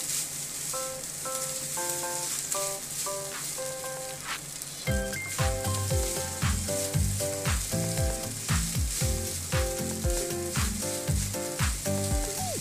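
Fried rice sizzling in a hot wok as it is stirred and tossed with a wooden spatula. Background music plays over it: a light melody of short notes, with a low thumping beat coming in about five seconds in.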